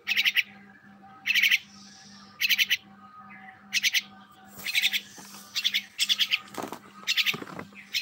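A bird's short, rapid chattering calls, repeated about once a second, with a couple of lower, harsher calls near the end, over a faint steady hum.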